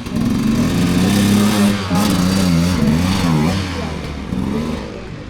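Dirt bike engine revving hard under load. The revs hold high at first, then rise and fall repeatedly as the throttle is worked, and the engine fades away near the end.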